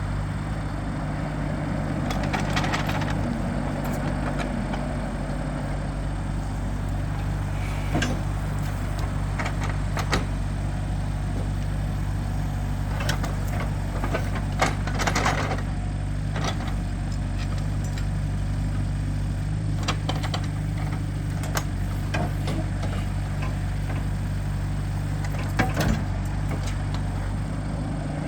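An engine running steadily, with scattered knocks and cracks of wood as logs are loaded onto a truck.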